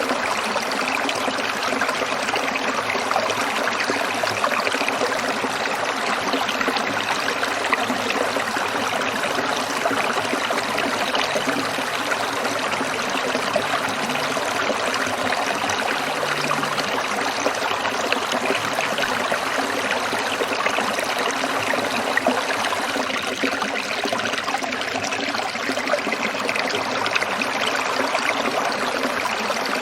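A small stream trickling and babbling over stones in a steady, unbroken flow.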